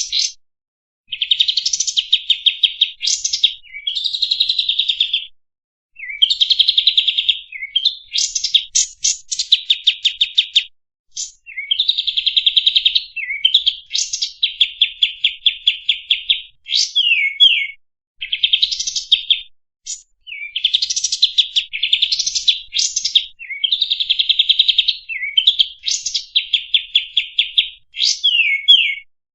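Kapas tembak bird singing: fast high-pitched trills and rapid chattering phrases, one after another with brief pauses, loud throughout.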